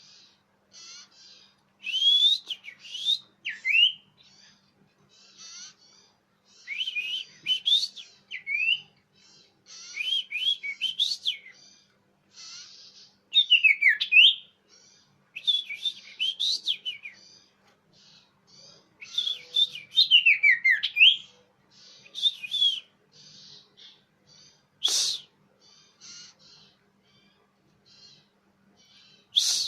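Common iora (cipoh) song and calls: bursts of clear, loud whistled notes and quick chattering phrases, repeated every second or two, as played for luring birds. A single sharp click near the end.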